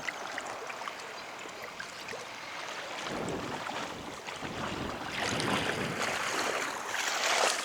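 Wind on the microphone mixed with moving floodwater, a steady hiss that swells a little after three seconds and again over the second half.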